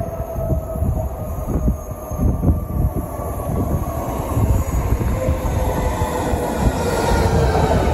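SL X60 electric commuter train approaching along the track, its rumble and rail noise growing louder as it nears, with a faint whine that slides slightly lower in pitch.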